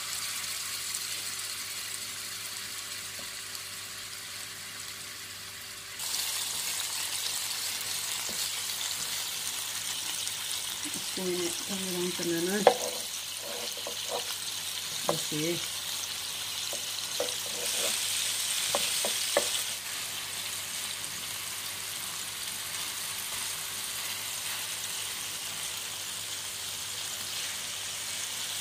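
Seekh kebabs sizzling in a frying pan, steady and louder from about six seconds in, with a few sharp knocks of a utensil against the pan.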